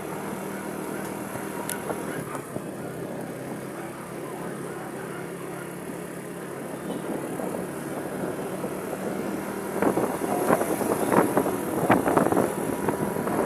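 Motorcycle engine running steadily while riding, mixed with road and wind noise. About ten seconds in the sound grows louder and uneven, with irregular surges.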